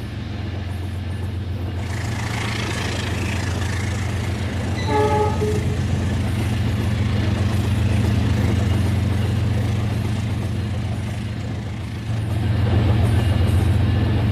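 RailKing model train running, its locomotive sound system giving a steady low engine rumble over the noise of wheels on track, with one short horn toot about five seconds in.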